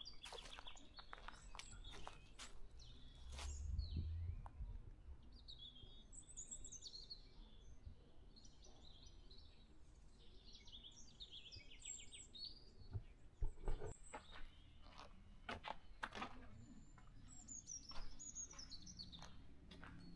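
Birds chirping and calling in short repeated chirps and trills, with scattered sharp clicks or knocks, the loudest two about two-thirds of the way through.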